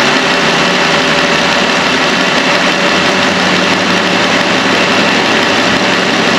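Jeep Wrangler's freshly swapped 3.6L Pentastar V6 idling steadily while it warms up to open the thermostat and push air out of the refilled cooling system.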